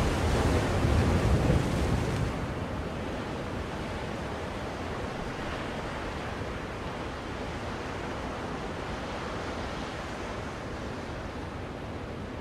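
Ocean waves washing on a shore, played as soothing noise for a baby: a louder surge for about the first two seconds, then a steady, softer wash.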